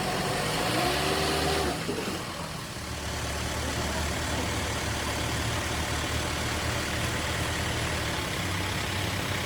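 Freshly rebuilt Mercedes V8 engine running: its speed rises and falls once in the first two seconds, then it settles into a steady idle.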